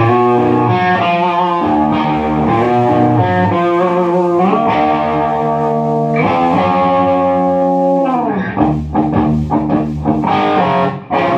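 Electric guitar played loud through a Marshall MG15 amp with its clean channel turned up into crunchy overdrive, heard through a 4x12 cabinet. Held chords give way to a pitch dive about eight seconds in, then short, choppy strums.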